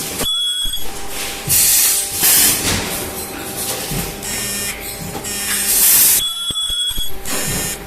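Plastic welding machine cycling, with repeated short bursts of loud hissing about every second or two and a brief high tone twice.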